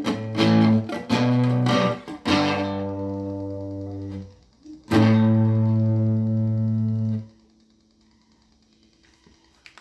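Plugged-in guitar strumming the closing chords of a song: a few short chords, then a held chord, then a final chord about halfway through that rings for two seconds and is cut off sharply. After the last chord there is only faint amplifier hum.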